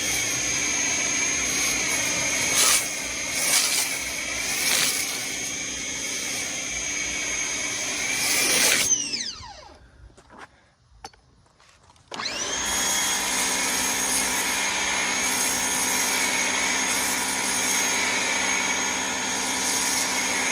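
Ryobi 1600 PSI electric pressure washer's motor and pump running with a steady high whine while spraying snow foam through a foam cannon. About nine seconds in it winds down with falling pitch as it stops, then it starts again about three seconds later and runs steadily.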